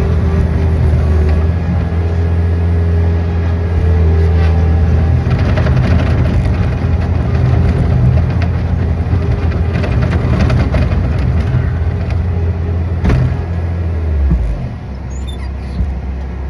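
An engine running steadily with a low hum. About fourteen seconds in it drops to a lower, quieter note.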